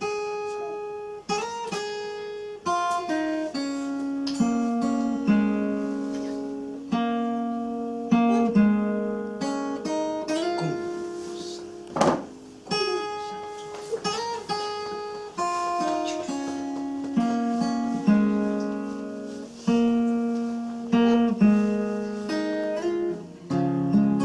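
Acoustic guitar playing a slow song introduction of strummed and picked chords, each chord ringing out and fading before the next, with one sharp knock about halfway through.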